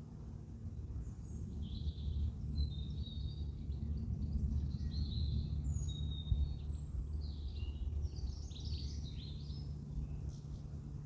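Small birds chirping and singing in quick short calls and whistles, over a steady low outdoor rumble.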